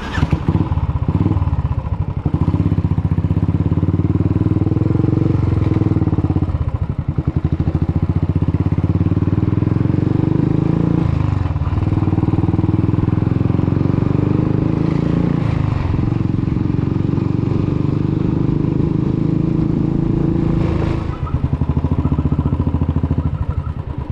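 Royal Enfield Thunderbird 350X's single-cylinder engine running steadily while riding, a fast even exhaust beat, its note breaking briefly a few times.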